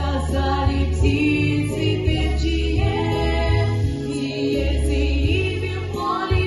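A song: voices singing a melody over an instrumental backing with a bass line moving in held notes.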